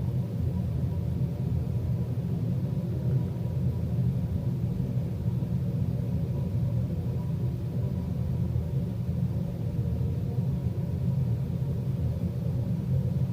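Steady low background rumble with a faint steady hum, unchanging throughout.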